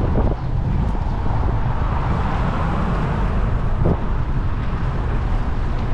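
Steady low rumble of wind on the microphone while cycling, mixed with passing street traffic.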